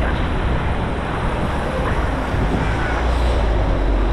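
Steady rushing noise with a heavy low rumble that eases off just after the end, the kind of sound made by wind and rain on an action camera's microphone while riding a bike in the rain.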